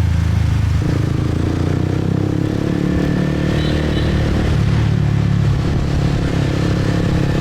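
Motorcycle engine running steadily under way, its pitch shifting about a second in and again around three seconds in as the speed changes.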